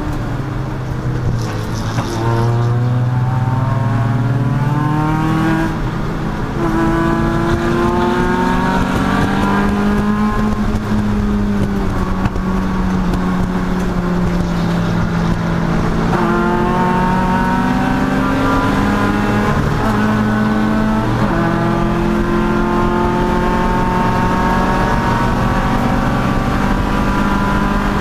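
Race car engine running hard on track, its pitch climbing under acceleration and dropping back several times, then holding fairly steady near the end.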